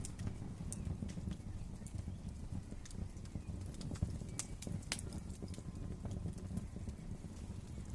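Wood fire crackling in a fireplace: a steady low rumble of flames with irregular sharp pops and snaps, the loudest about four seconds in.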